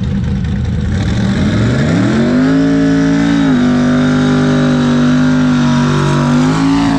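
Drag-racing truck engine revving up about two seconds in and held at a steady high rpm for several seconds.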